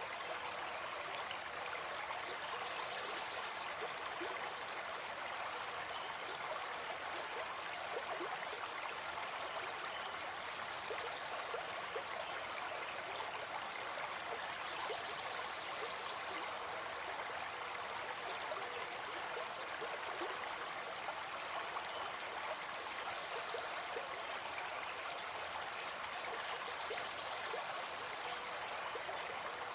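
Gentle forest stream flowing steadily, with a few faint high bird chirps now and then.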